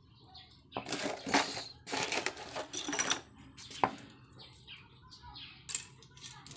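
Small metal tools and engine parts clinking and rattling together in a jingling cluster between about one and three seconds in, followed by a couple of single sharp clicks.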